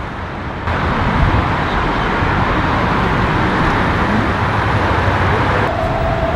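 Steady outdoor road-traffic noise, a dense hiss and rumble. It jumps louder abruptly just under a second in and shifts again near the end, where a faint steady tone joins it.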